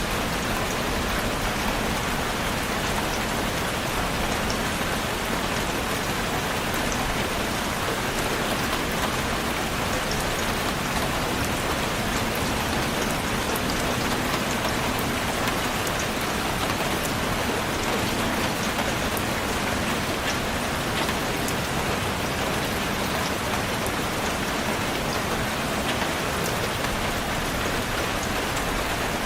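Steady rainfall: an even hiss of rain with many small drop ticks, unchanging throughout.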